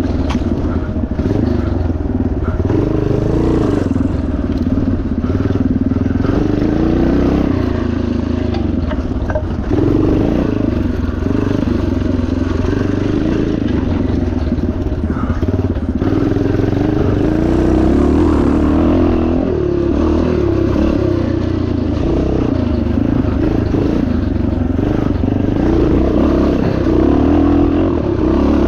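1977 Yamaha TT500's single-cylinder four-stroke engine running hard, its pitch rising and falling over and over as the throttle opens and closes.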